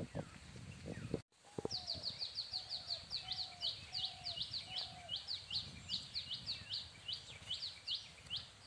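A bird calling a long, even run of short, high notes that each sweep downward, about four a second, starting just after a brief dropout in the sound; a few fainter, lower calls sound under the first half.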